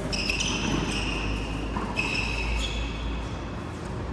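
Rubber-soled court shoes squeaking on an indoor hall floor: two drawn-out high squeaks, each about a second long, as players move during a rally.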